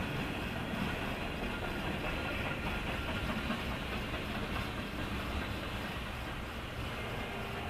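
Norfolk Southern mixed freight train passing, a steady rumble of the train rolling by on the track.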